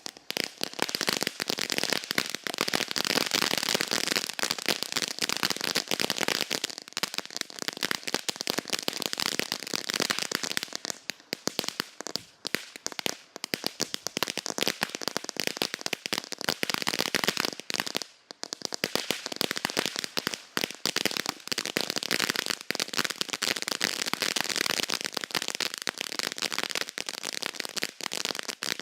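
Dakota Snow Storm consumer firework fountain burning with a dense, rapid crackle, like many tiny pops at once. It starts right at the outset and keeps going, dipping briefly a couple of times along the way.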